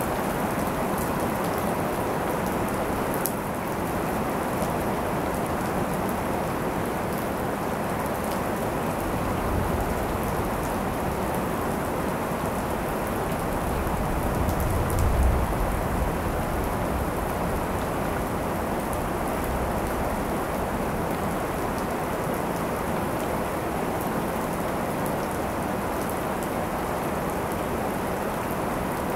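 Steady rain falling during a thunderstorm, with scattered drip ticks, and a brief low rumble of distant thunder swelling about halfway through.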